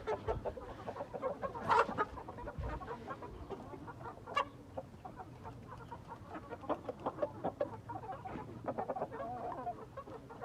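Chickens clucking: a run of short, scattered clucks with a couple of louder calls about two and four and a half seconds in.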